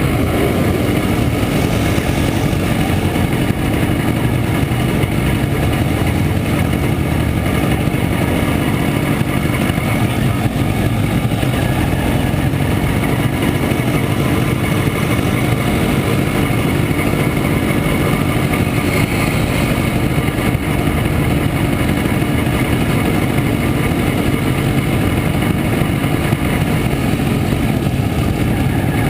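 1967 Montesa Impala Comando 175 cc two-stroke single-cylinder motorcycle engine running steadily under way.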